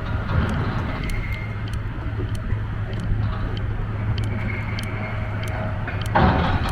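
Cutting chain of the VB 10000 sawing through the hull of the Golden Ray wreck: a steady low drone with scattered sharp ticks and clanks, and a louder grinding surge about six seconds in.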